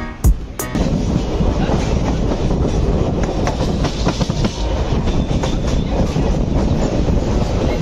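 Express train running at speed, its coach wheels rumbling and clattering over the rails, heard at the open coach door. A last beat of background music with a sharp hit cuts out in the first second, and the rail noise then runs steadily.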